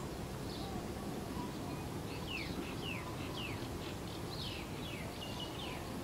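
A small bird chirping, a quick run of short falling notes starting about two seconds in, over a steady low outdoor background rumble.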